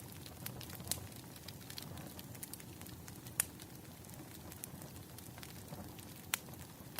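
Wood fire crackling softly, with many small ticks and three louder pops: about a second in, near the middle, and near the end.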